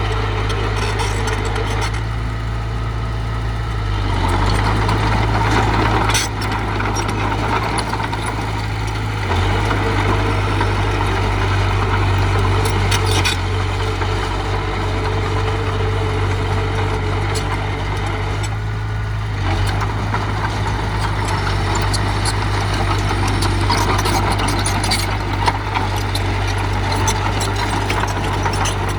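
Diesel engine of earthmoving machinery running steadily, getting louder for a couple of seconds about four seconds in, with a few sharp clanks scattered through.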